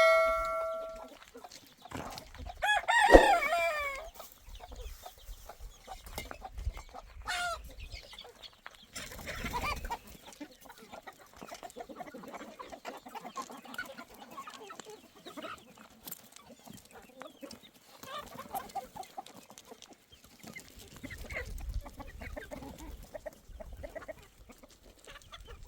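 Chickens clucking, with a rooster crowing loudly once about three seconds in.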